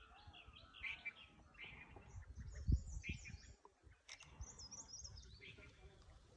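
Small birds chirping and calling faintly in short repeated high notes. A couple of low thumps land a little under halfway.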